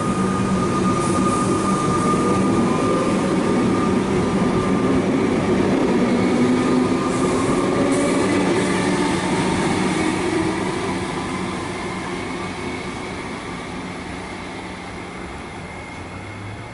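Comeng electric suburban train departing, its motors whining over the running noise; loud for about ten seconds, then fading steadily as it pulls away.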